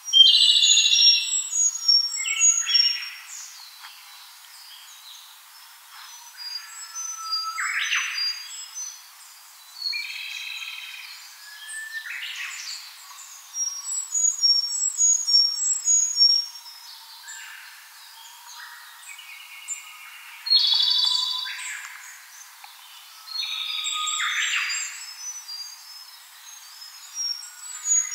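Japanese robin (Larvivora akahige) singing: loud phrases of a second or two, each a high note and a ringing trill, repeated every few seconds with pauses between. Faint, short, high chirps tick on steadily in the background.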